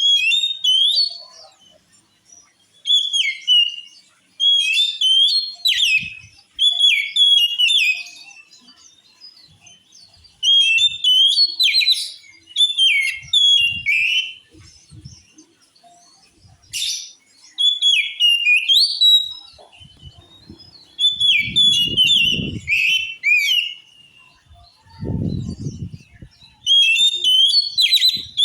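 Oriental magpie-robin (kacer) singing in repeated bursts of quick whistled notes that slide up and down, each burst a second or two long with short pauses between. A low rumble sounds twice near the end.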